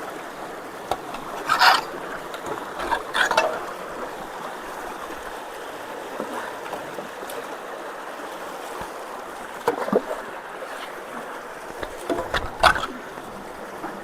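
Rushing floodwater flowing steadily through a culvert, an even rush of water. A few short, louder sounds stand out, about two, three, ten and twelve and a half seconds in.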